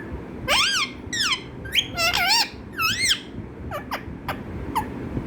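Pet parrot making a run of high squeaky calls, each note sliding up and down, followed by a few short sharp chirps near the end.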